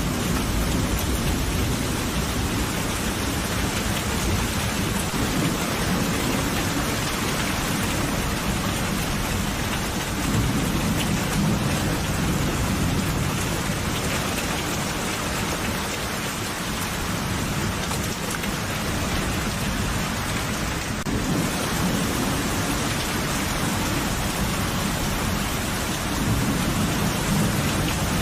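Steady heavy rain falling, with low rolling thunder rumbling under it and swelling a few times.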